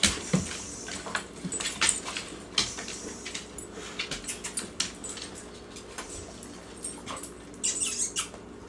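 Dogs moving about close by: scattered short clicks and scuffs, with dog noises mixed in.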